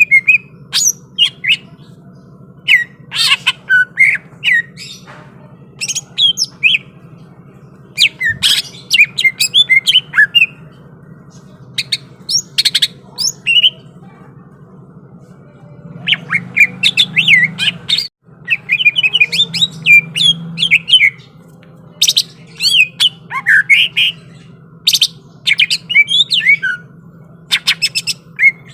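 Cucak ijo (greater green leafbird) singing hard in loud, sharp bursts of fast chattering and piercing notes, broken by short pauses, over a steady low hum. The sound cuts out briefly past the middle.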